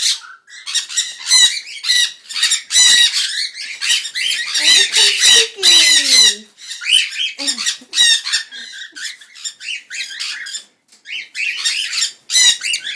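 Cockatiels calling in a rapid string of harsh, shrill squawks, several a second, with a short lull about ten seconds in.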